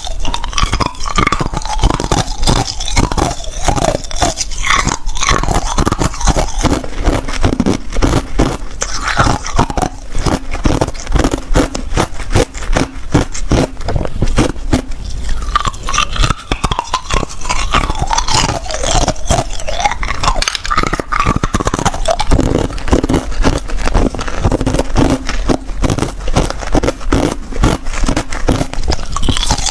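Ice being bitten and chewed: a continuous run of rapid, loud crunches and cracks.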